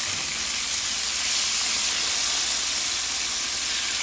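Pieces of king fish frying in a pot of hot oil, a steady sizzle.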